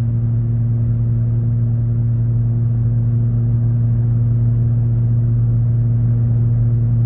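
Car engine and road noise at a steady cruise, a constant low drone heard from inside the cabin.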